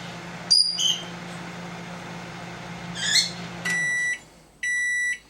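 Microwave oven humming as it runs, then shutting off a little before four seconds in and giving two end-of-cycle beeps about a second apart. Pet birds chirp loudly twice over the hum.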